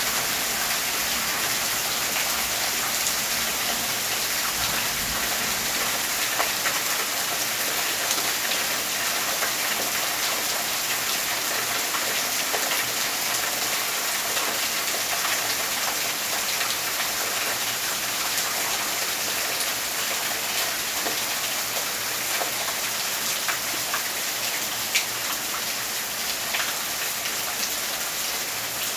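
Heavy rain falling steadily in a dense, even hiss, with scattered sharper drops and drips ticking on nearby surfaces.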